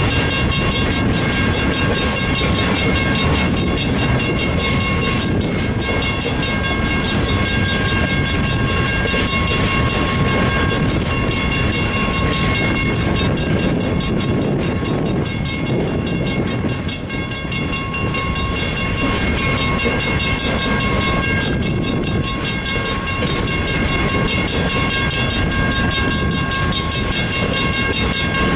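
Freight train of boxcars rolling steadily past over a road grade crossing, a continuous rumble of wheels on rail with clacking. Thin steady high-pitched tones ring over the rumble through most of the passage.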